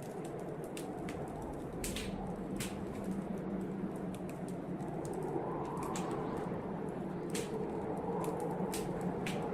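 Wood fire crackling in a fireplace: a dozen or so sharp, irregular pops and snaps over a steady rush, with a blizzard wind howling outside that swells and falls.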